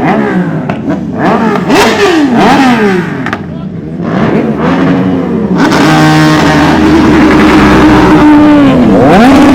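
A vehicle engine revved hard in quick rises and falls, then held at high revs for a few seconds before dropping near the end; very loud and close.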